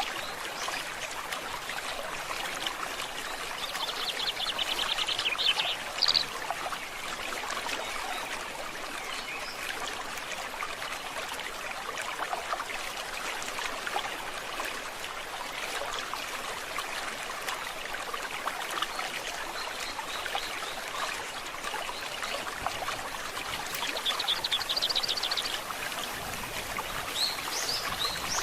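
Forest stream water running steadily. A bird trills twice over it, a quick run of repeated high notes about four seconds in and again near the end.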